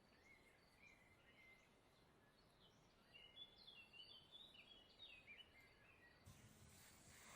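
Near silence, with faint high chirps like distant birdsong, most of them in the middle of the stretch.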